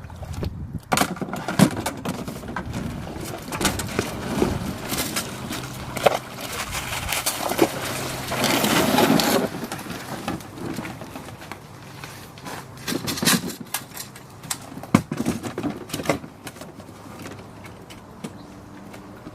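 Handling of a folding boat as it is taken apart: irregular knocks and clicks, with a longer scraping rush about halfway through.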